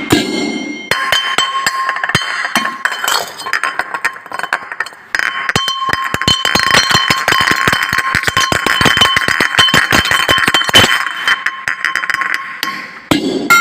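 Drinking glasses struck rapidly again and again as an improvised instrument, clinking and ringing on steady pitches. The tapping starts about a second in and breaks off briefly near the middle before carrying on.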